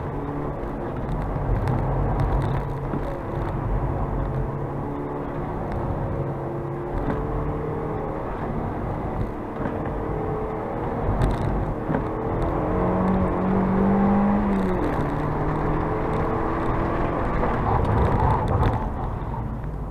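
Mazda MX-5 NC's 2.0-litre four-cylinder engine under hard driving, its revs repeatedly climbing and dropping, heard from the open cockpit. The revs peak highest about two-thirds of the way through.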